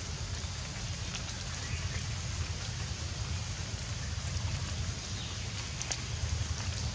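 Steady rain, an even hiss, over a low fluttering rumble, with a few faint clicks near the end.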